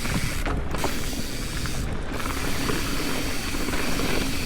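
Mountain bike coasting down a rocky trail: the rear hub's freewheel ratchets steadily under the rattle of tyres over dirt and rock.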